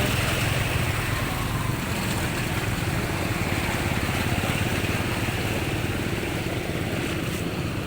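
Motorcycle engine of a tricycle running steadily with a fast low pulse, slowly growing fainter.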